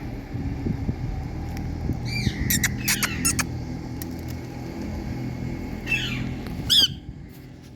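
Rose-ringed parakeet (Indian ringneck) giving short harsh screeching calls: a quick cluster a couple of seconds in, then two more near the end. Under them runs a steady low rumble that drops away near the end.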